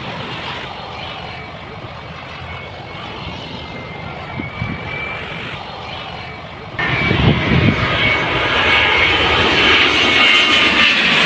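Jet airliner on its landing approach passing low overhead: a steady rush of jet engine noise with a thin whine, which becomes suddenly much louder about seven seconds in.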